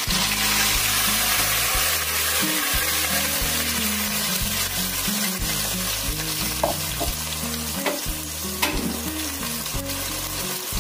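Blended onion paste sizzling hard in hot oil in a metal pot, a dense frying hiss that eases slightly as it goes on, with a few sharp ticks around the middle.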